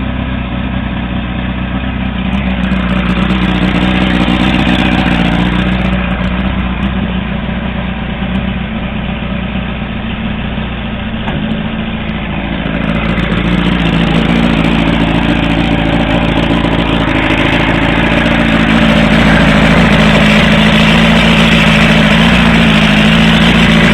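1962 Johnson 75 HP V4 two-stroke outboard motor running. It is revved up about two seconds in and eases back. It picks up again from about thirteen seconds in and runs at its highest speed near the end.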